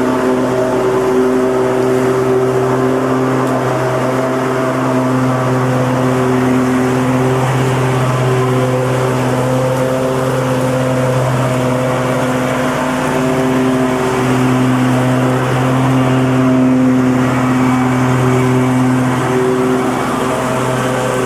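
Lawnmower engine running steadily at an even pitch, its level and pitch wavering slightly now and then.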